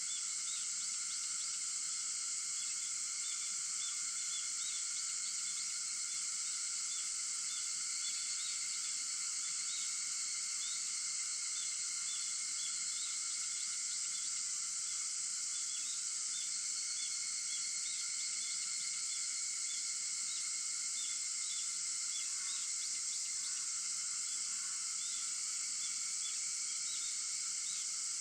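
Summer insect chorus led by cicadas: a steady, unbroken high buzzing, with lower droning bands and many quick little chirps scattered over it.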